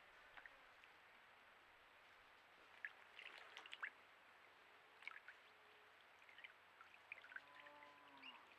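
Faint water splashing and dripping at a bird drinking trough, in a few short bursts, as a bird bathes or drinks. Near the end, a faint low call with a slightly falling pitch.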